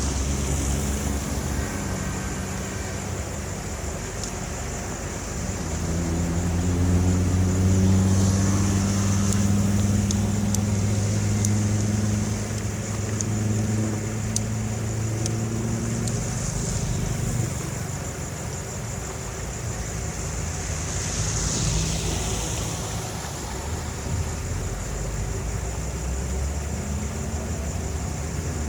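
An engine running. Its pitch climbs and it grows louder about six seconds in, holds there for about ten seconds, then settles back to a lower, steady run.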